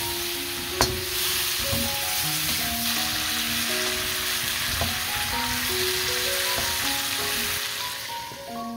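Apple wedges sizzling in melted butter and cinnamon in a wok as a wooden spatula stirs them, with one sharp knock about a second in. The sizzle fades out near the end, under light background music.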